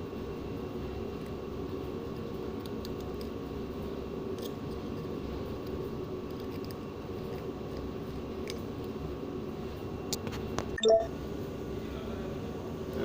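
Steady machinery hum, with a few faint clicks and one short, louder knock about eleven seconds in as metal pump parts are handled.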